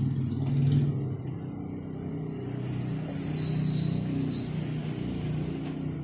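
A steady low engine-like hum, with a run of short high chirps about halfway through.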